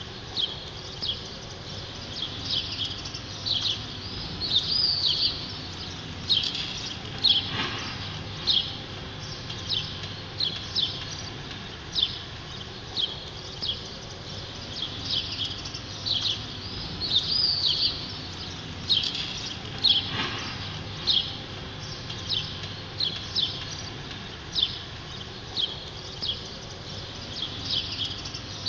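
Small birds chirping over and over, short high chirps about one or two a second, over a steady low background noise.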